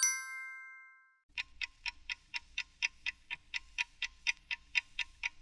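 A bright chime rings and fades away over about the first second. Then a clock-like ticking starts, even and quick at about four ticks a second.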